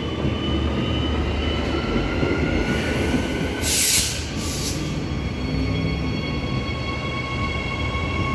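Transperth electric multiple-unit trains pulling away from the platform: a motor whine rising in pitch as they gather speed, over a steady rumble of wheels on rail. A short hiss comes about four seconds in.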